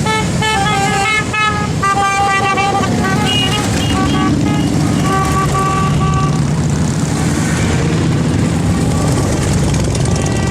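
A group of motorcycles running together with a steady engine rumble, and a string of short horn toots over it, thickest in the first few seconds and again around the middle.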